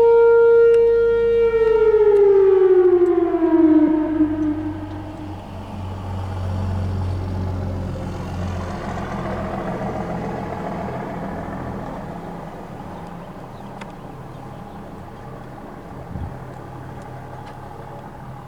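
Whelen Vortex R4 outdoor warning siren holding its steady tone, then winding down about a second and a half in: the pitch falls and fades over a few seconds as the alert ends. A low rumble lingers after it and slowly dies away, with a single soft thump near the end.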